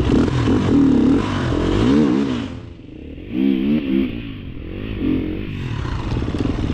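Dirt bike engine running hard under throttle, then backing off about a third of the way in and revving up and down several times before pulling steadily again.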